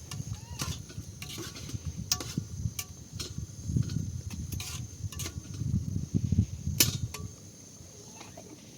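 A string of sharp clicks and knocks, some ringing briefly, with the loudest one near the end, over low rumbling that comes and goes.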